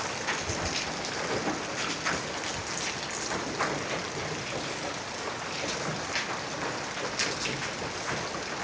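Heavy rain falling on small rocks: a steady hiss of rain with many sharp drop strikes scattered through it.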